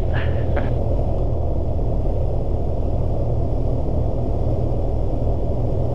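Cessna 172S cockpit noise heard through the headset intercom: a steady low drone of the engine and airflow, with power pulled back on final approach.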